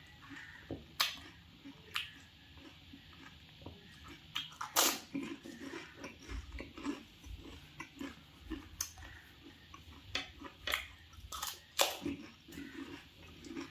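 Close-up chewing of crisp pani puri shells, with irregular sharp crunches that are loudest about five seconds in and again near the end.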